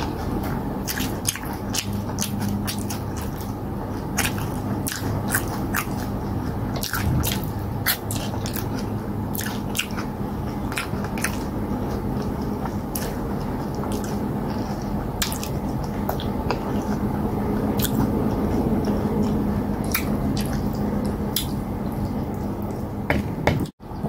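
Close-up eating sounds of a person chewing cassava fufu with slimy okra stew: irregular wet mouth clicks and smacks over a steady low hum. The sound cuts out for an instant near the end.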